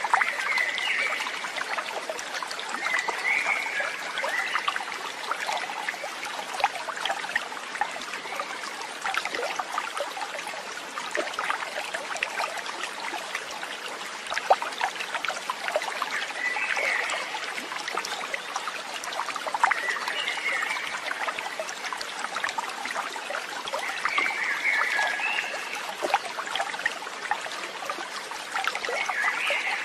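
A stream of water trickling and splashing steadily, with a short higher call from an animal, bird or frog, standing out every few seconds.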